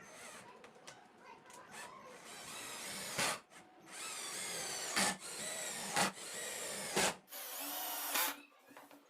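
Handheld power drill running in a series of short runs of about a second each, stopping and restarting, with a sharp click between runs.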